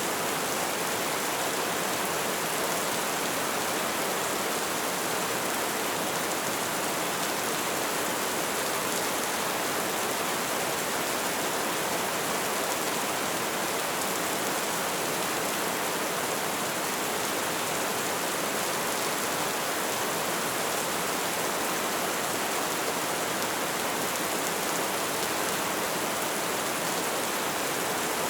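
Steady light rain falling, an even hiss of many small drops without breaks or thunder.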